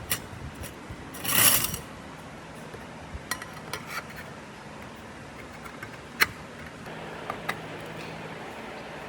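Small metal parts and tools being handled on a workbench: scattered light clicks and knocks, with a short scraping rush about a second and a half in, the loudest sound, over a steady low hum.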